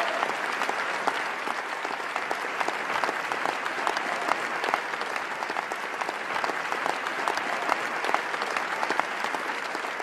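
Steady applause: many hands clapping in a dense, even patter.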